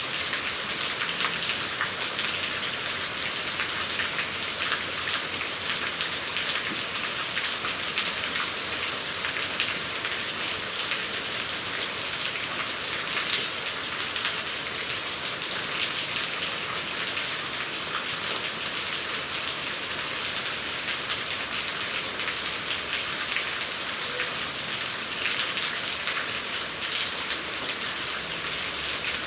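Steady rain: a constant hiss thick with many small drop impacts.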